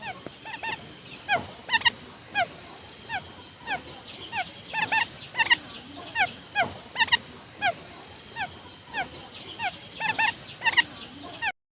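Quail lure call: many short, falling whistled notes repeated quickly and often overlapping, as if from several birds. It cuts off suddenly just before the end.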